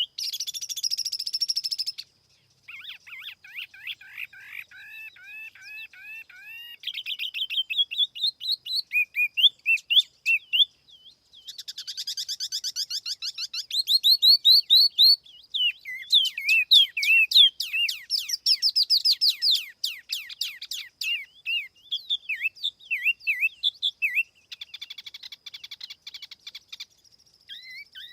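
Tiểu mi songbird singing from a lure recording: fast phrases of clear, repeated swooping and chirping notes, broken by short pauses.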